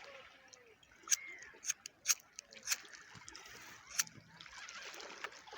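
Sea water splashing and sloshing, with about five sharp slaps in the first four seconds and a swell of wash near the end.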